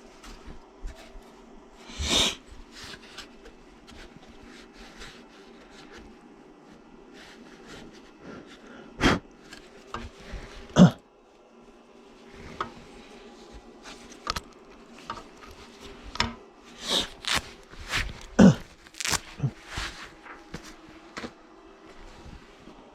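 Scattered clicks and knocks, with a few louder sharp knocks, over a steady low hum, typical of small parts and tools being handled on a workbench.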